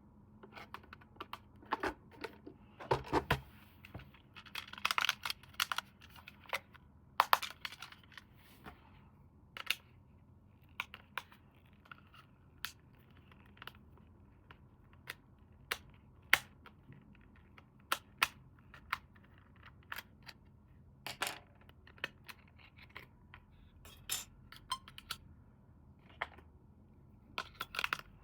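Toy and packaging handling: irregular sharp plastic-like clicks and taps, with a few short bursts of rustling or tearing in the first several seconds.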